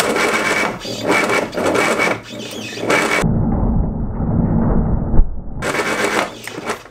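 Classic Mini's Arden 8-port A-series engine on Jenvey throttle bodies cranking on the starter and firing raggedly with loud backfire bangs, not catching. It is a failed first start: only plugs 2 and 4 were wet, and the owner goes on to re-check the base ignition timing.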